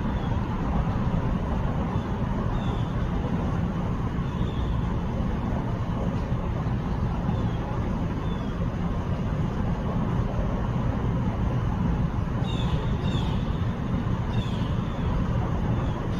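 Steady low outdoor rumble without any rhythm, with a few short, high downward chirps scattered through it, several close together near the end.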